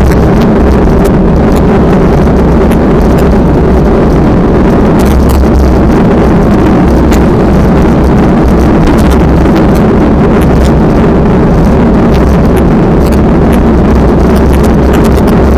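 Strong wind blasting the microphone: a loud, continuous low rumble with scattered crackles.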